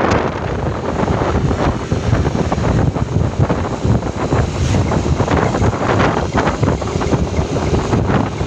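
Wind buffeting the microphone of a moving vehicle, a loud, gusting rumble with road noise underneath.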